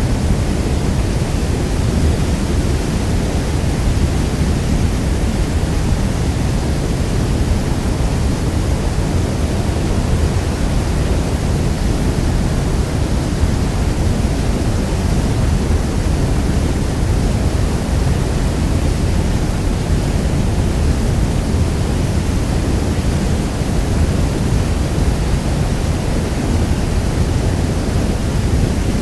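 Niagara Falls: a steady, dense rush of falling water, deep and unbroken, weighted to the low end.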